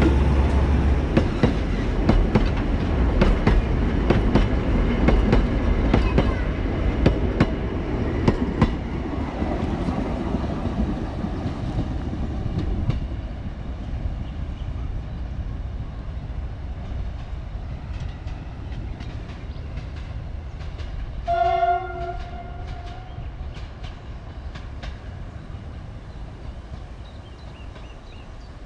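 Narrow-gauge diesel passenger train pulling away: the locomotive's engine and the clatter of coach wheels over rail joints, fading steadily as the train recedes. About 21 seconds in, the locomotive gives one short horn blast in the distance.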